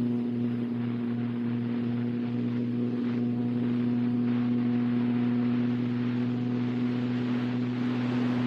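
Brushless electric motor and propeller of an RC model plane running steadily in flight, a constant whine over rushing air, heard from on board the plane.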